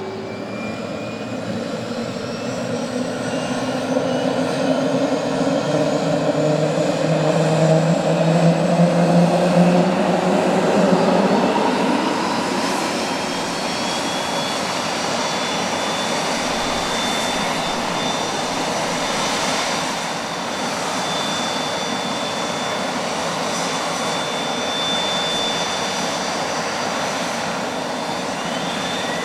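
Cessna Citation CJ2's Williams FJ44 turbofan engine starting: its pitch climbs and the level rises over about ten seconds as it spools up. It then settles into a steady high whine at idle.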